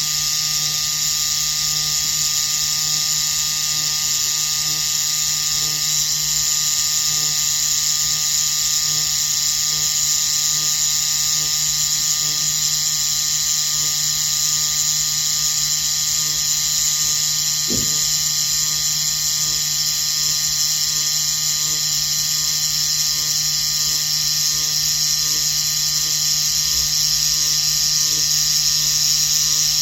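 Semi-permanent makeup (PMU) machine running with a steady electric buzz while it dots pigment in at 90 degrees for scalp micropigmentation practice.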